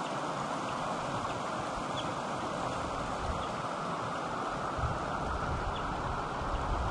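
Steady rush of creek water flowing over rocks, with low gusts of wind buffeting the microphone from about five seconds in.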